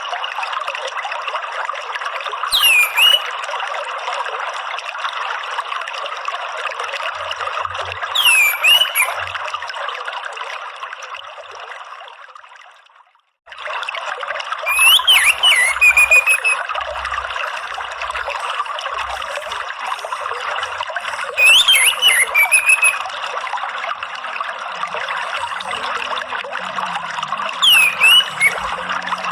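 Steady trickling water with an orange-headed thrush giving short, sharp calls about every six seconds. The water fades out about twelve seconds in and comes back a second later.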